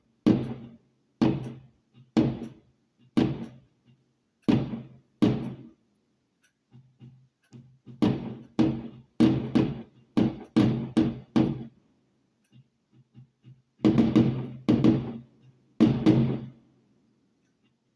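A run of firework bangs, each a sharp thud that dies away in under a second, coming at uneven intervals of about one a second with several close together and a short pause about two thirds of the way through.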